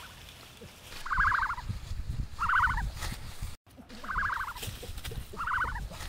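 A bird's rapid rattling call, heard four times in two pairs, each call about half a second long, with a low rumble of movement under the calls. The sound cuts out for a moment about halfway.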